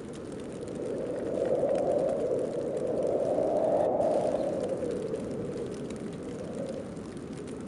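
Snowstorm wind blowing steadily, with a gust that swells up about a second in and dies back down about five seconds in.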